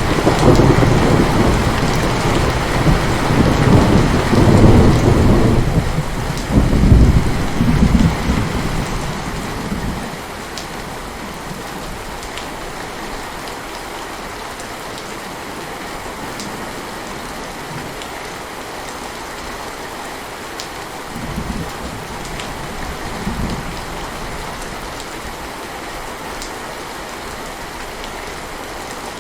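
Heavy rain falling steadily, with a long, loud roll of thunder through the first ten seconds that swells twice before fading. Two fainter rumbles of thunder come about two-thirds of the way through.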